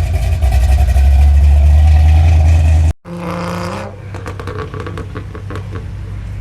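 Car engine and exhaust running with a loud, deep rumble that cuts off abruptly about three seconds in. A quieter engine sound follows, briefly rising in pitch, then a few clicks.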